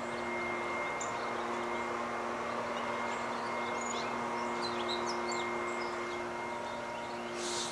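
Small songbirds giving short, high chirping call notes, scattered through, over a steady low background hum and hiss.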